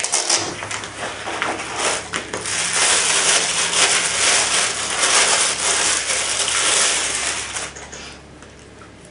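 Packaging being handled as the binoculars are unpacked: a dense, scratchy rustle that grows louder after a couple of seconds and dies away near the end.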